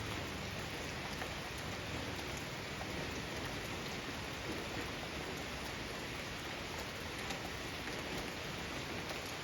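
Steady rain falling on a garden, an even hiss with scattered drops pattering on surfaces.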